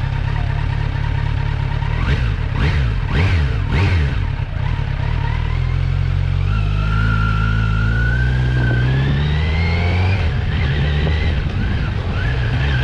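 Kawasaki Z900's inline-four engine and exhaust on the move, running steadily at first. About halfway through, the engine note climbs as the bike accelerates, drops at an upshift later on, then starts climbing again.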